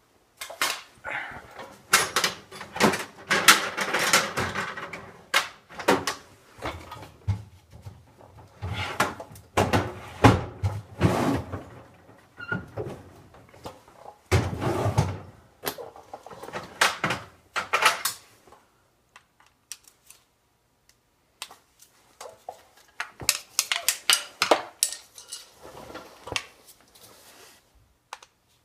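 Clicks, knocks and scraping of hand tools against a metal two-stroke silencer as the Allen screws on its end cap are worked loose, in irregular clusters with a few seconds' lull about two-thirds of the way through.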